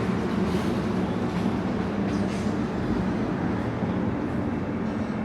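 Heavy concrete mixer truck's diesel engine running steadily, a low even hum with no change in pitch.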